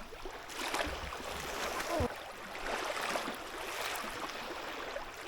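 Lake water splashing and sloshing as a person moves in it, with a short gasp about two seconds in at the shock of the freezing water.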